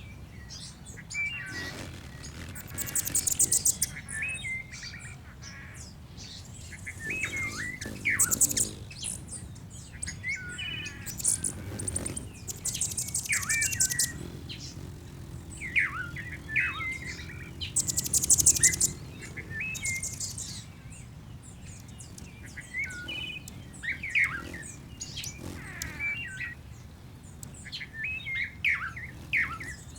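Bird-song ambience: several birds chirping and calling in short whistled phrases, with bursts of high, buzzy trills every few seconds.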